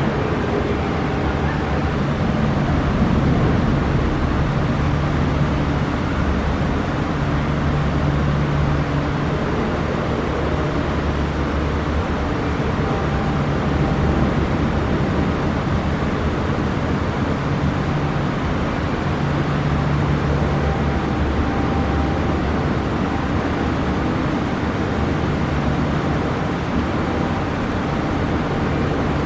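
Steady low engine rumble with a deep hum that swells and fades every few seconds.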